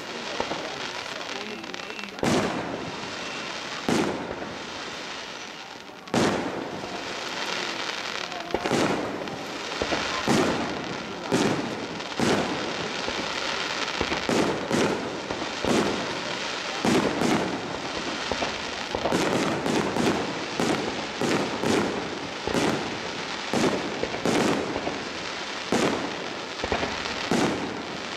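Large fireworks display: shells bursting in a series of sharp bangs over a steady hiss, a few seconds apart at first, then coming about one or two a second in the second half.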